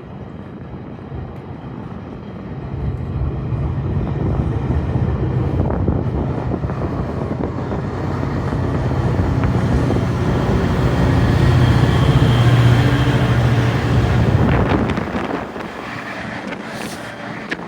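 GO Transit diesel commuter train pulling away: a steady low engine drone and rumble build, loudest about twelve seconds in, then drop off sharply near the end.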